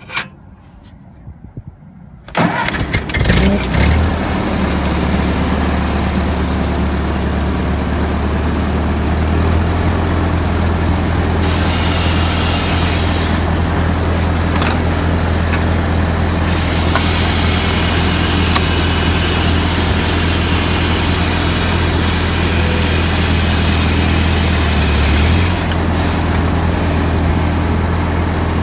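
Ford 8N tractor's four-cylinder flathead engine starting: a click, then about two seconds in it catches unevenly and settles into a steady idle. Its speed steps up slightly about a third of the way in and drops back near the end.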